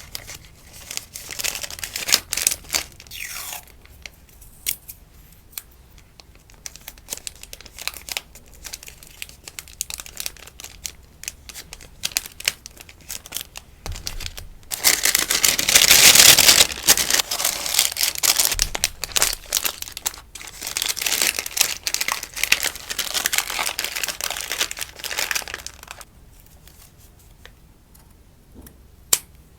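Rustling and crinkling of sticker packaging being handled and packed, in irregular crackly bursts. The sound grows into a louder, denser spell of rustling for two seconds or so around the middle, then settles to lighter handling near the end.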